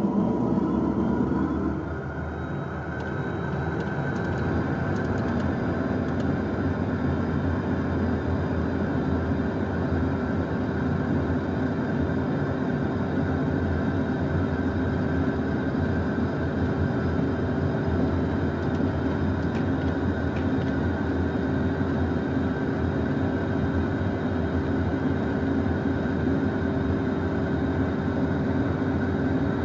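Steady mechanical hum in a Beechcraft Premier 1A business jet's cockpit, with several steady tones that come in over the first few seconds and then hold unchanged.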